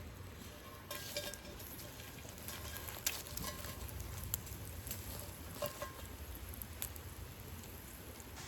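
Scattered crackles and pops from cooking over a campfire in a cast iron skillet, with a few sharper clicks, over a low steady rumble.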